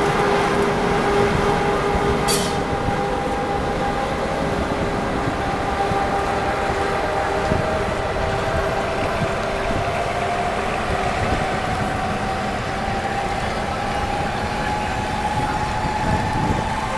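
EP2K electric locomotive pulling a passenger train away, with a steady rumble and a whine that rises slowly in pitch as the train gathers speed. A short sharp click about two seconds in.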